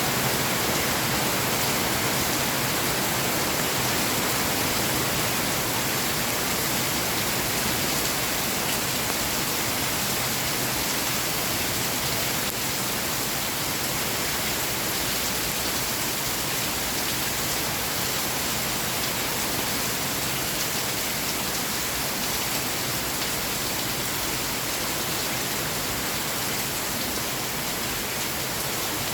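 Steady rain falling, an even hiss without breaks or thunder claps.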